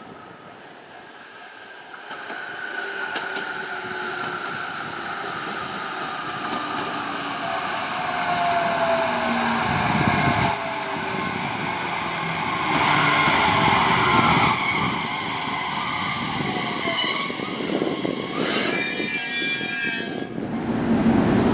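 JR Kyushu 817 series 0-series electric train pulling in, its inverter whine slowly falling in pitch as it slows and growing louder as it comes near. A brief high squeal comes near the end.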